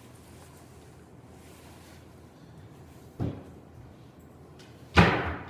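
Quiet room tone broken by two knocks: a dull one about three seconds in and a louder, sharper bang near the end that rings out briefly.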